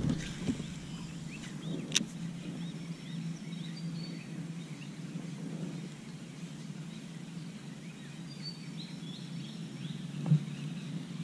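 Small birds chirping repeatedly over a steady low hum, with a sharp click about two seconds in and a knock near the end.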